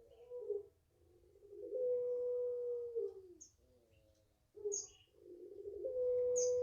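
Puter pelung dove cooing: a long drawn-out coo held on one steady note for over a second, then dropping away, with a second long coo starting about four seconds in. A few short, high chirps from small birds sound over it.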